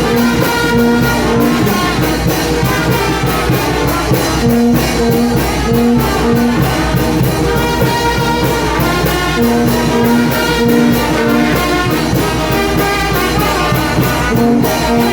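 Mexican brass band (banda) playing: trumpets and trombones over a steady drum beat, with short, repeated low brass notes.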